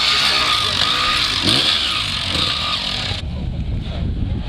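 Vintage motocross motorcycle engines running and revving, rising and falling in pitch over a strong hiss. About three seconds in, the hiss cuts out suddenly and the engine sound carries on duller.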